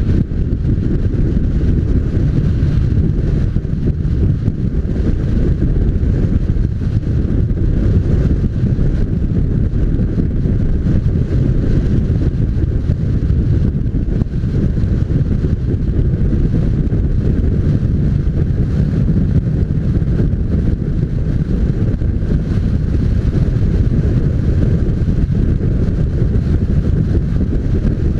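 Steady wind rush buffeting the microphone on a moving motorcycle, with road and engine noise blended underneath.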